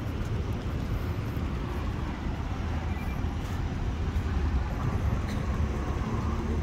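Dubai Metro train running, a steady low rumble with no sharp events.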